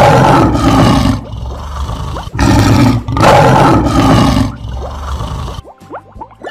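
Lion roar sound effect, heard twice. One loud roar dies away about a second in, and another begins about two and a half seconds in and lasts about two seconds.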